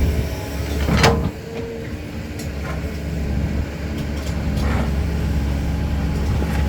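Caterpillar 320 hydraulic excavator's diesel engine running steadily under work, with a sharp metallic clank and a short ring about a second in and a few lighter knocks later, typical of the steel bucket and material striking a dump truck bed.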